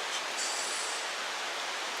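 A steady, even rushing hiss of outdoor background noise, with nothing sudden in it.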